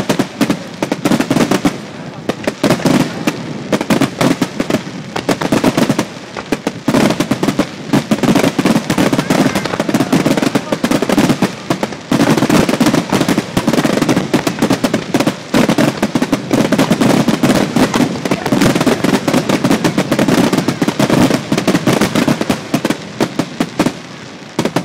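Japanese starmine fireworks barrage: aerial shells launching and bursting in rapid, overlapping succession, a continuous stream of booms and crackles that eases off just before the end.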